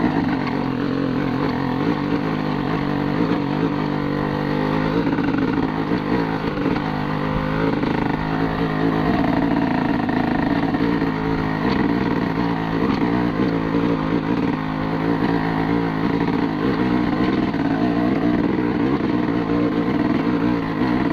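Honda TRX250R's two-stroke engine running under load while it tows a dead dirt bike on a strap, the pitch wavering a little with the throttle.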